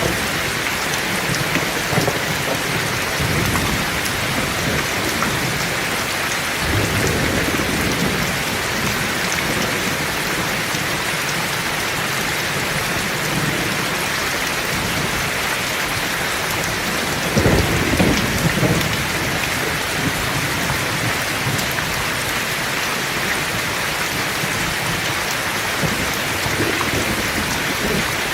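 Heavy rain falling steadily, with rolls of thunder rumbling through it, the loudest about two-thirds of the way in.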